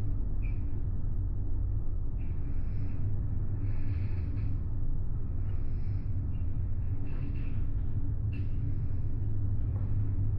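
Steady low rumble of the ferry Ishikari under way, its engines and hull vibration heard inside the cabin, with short patches of higher hiss coming and going every second or two.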